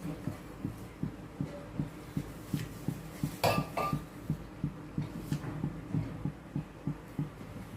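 Kitchen work: a steady run of soft, low knocks, about three a second, with a brief metallic clink of a utensil about three and a half seconds in.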